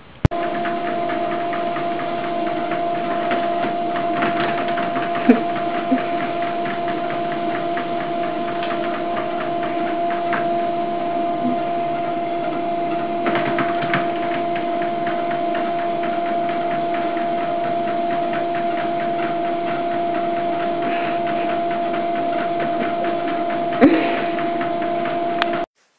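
A small motor running steadily, a hum holding two tones with a fast rattle over it. It starts and stops abruptly, with a few clicks along the way, the loudest about five seconds in and near the end.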